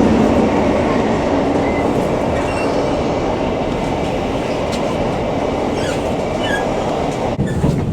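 Class 158 and 156 diesel multiple unit running along the line, a steady rumble of wheels on rail and engine noise heard on board. A faint hum fades in the first second or two, and the sound cuts off abruptly near the end.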